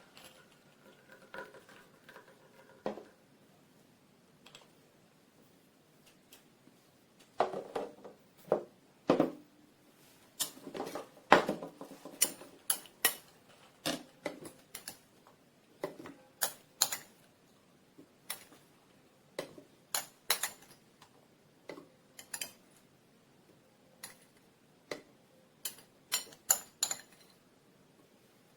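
Irregular clinks, clicks and knocks of hard objects being handled and set down, like kitchen parts or dishes, coming in quick clusters after the first few seconds.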